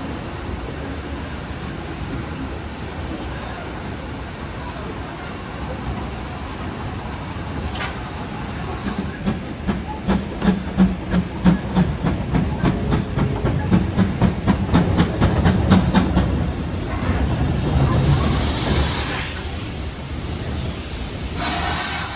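Steam train running on the line with a steady rumble. A regular beat of about two a second builds up and grows louder in the middle. Bursts of steam hiss come near the end.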